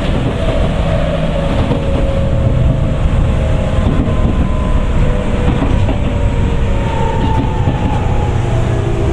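Tokyu 9000 series electric train running, heard from inside the car: a steady low rumble of wheels and motors, with the whine of its early Hitachi GTO-VVVF inverter drive as thin tones that slowly fall in pitch.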